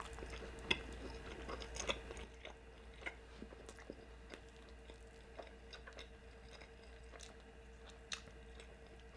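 Biting into a cheesy quesabirria taco and chewing it: a few sharper crunchy clicks in the first two seconds, then softer, sparser chewing ticks.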